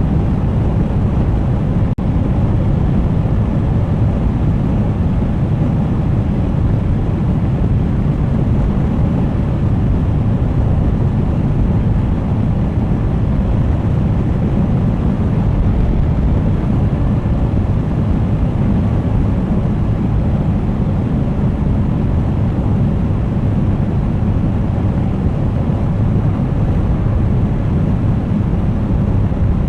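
Steady low rumble of a Suzuki GSX1250FA motorcycle under way: wind noise on the bike-mounted camera's microphone mixed with the engine running at a steady speed. There is a brief dropout about two seconds in.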